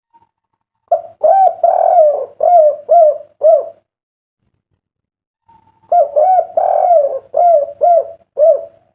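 Spotted dove (derkuku) cooing: two phrases of short, arched notes, the second beginning about two seconds after the first ends.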